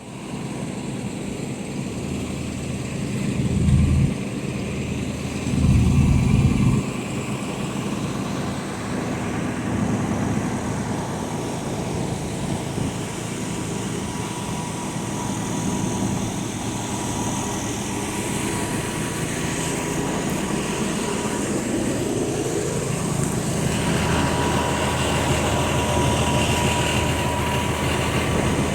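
2007 Blue Bird All American school bus's 8.3-litre Cummins inline-six diesel running steadily. It is revved briefly twice, about three and a half and six seconds in. About 23 seconds in the revs rise and stay higher.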